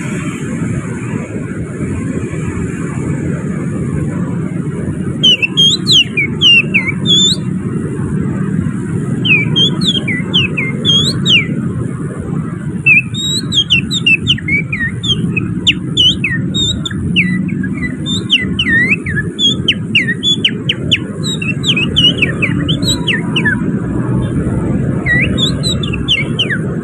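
Finger whistling imitating an oriental magpie-robin (kacer) in song, with canary-like phrases worked in: quick runs of sharp, slurred whistled chirps, starting about five seconds in. Steady traffic rumble lies underneath.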